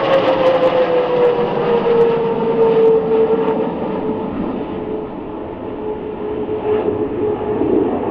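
Hongdu L-15E jet passing in a display, a steady jet roar with a whine that falls in pitch as it goes by and away, the hiss of the roar fading as it recedes.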